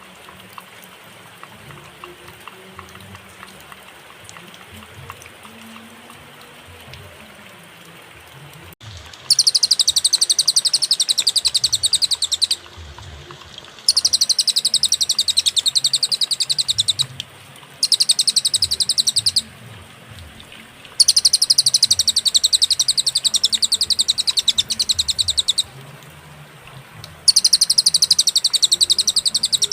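Cililin songbird singing a high, very fast trill of rapidly repeated notes. After about nine seconds of faint background, the trill comes in five bursts of two to four seconds each, with short pauses between.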